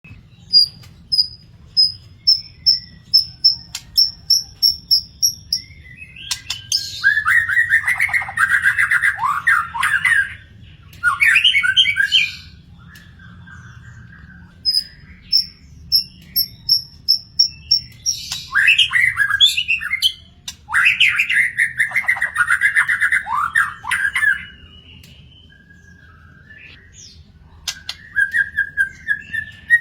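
A murai songbird singing: it starts with a steady run of evenly repeated high whistled notes, then breaks into loud, varied warbling phrases a few seconds long, separated by short pauses, with another run of repeated notes midway.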